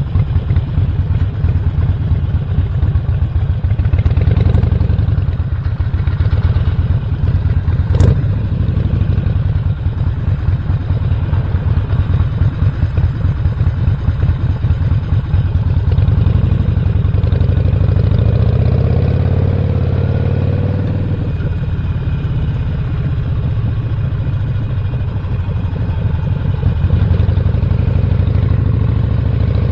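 Harley-Davidson Roadster's 1200 cc V-twin, stage 1 upgraded, running under way with a dense, low firing pulse. The engine note eases for several seconds past the middle, and there is one sharp click about eight seconds in.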